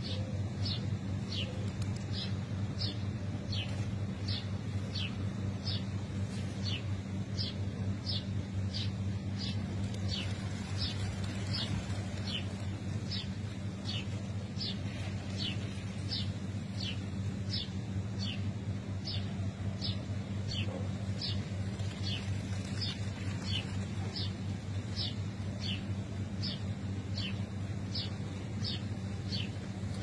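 A bird repeating a short, high, falling chirp at an even pace, about three every two seconds, over a steady low hum.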